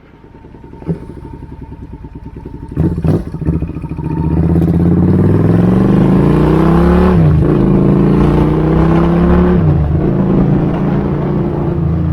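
Suzuki Intruder 800 V-twin motorcycle engine, running on the exhausts being tried out: it idles with a low pulse, then is revved twice, the pitch climbing for a few seconds and dropping back each time, and settles into steady running.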